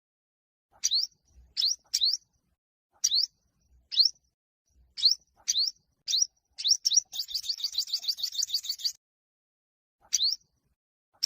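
Yellow-bellied sunbird singing its contest song: short, sharp upward-sweeping chips at irregular intervals. Near the middle it breaks into a fast trill of about fifteen notes, then goes back to single chips after a short pause.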